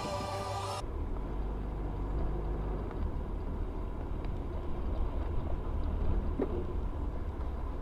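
Steady low rumble of a car driving, as picked up by a dashcam, starting abruptly about a second in when a short bit of music cuts off.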